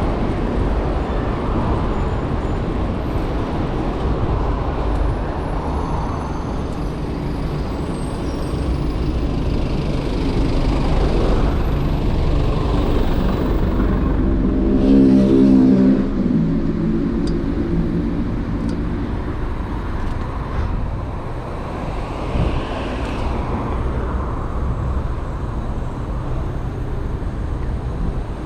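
City road traffic rumbling steadily around a moving cyclist. About halfway through, a nearby motor vehicle's engine drones louder and pitched for a few seconds.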